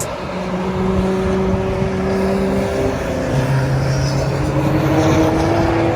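Tuned car's engine running hard on the track, its note holding steady, then dropping at a gear change about three seconds in and climbing again.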